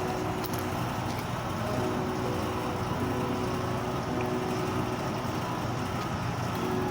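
Outdoor condensing unit of a ducted air conditioner running with its newly replaced condenser fan motor: a steady mechanical hum and whir with no breaks.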